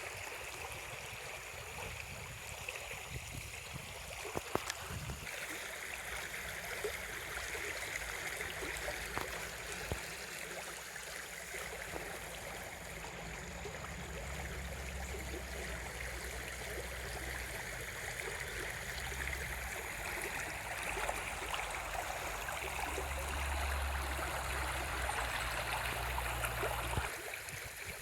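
Steady rushing of running water, like a stream, with a low rumble underneath that drops away about a second before the end.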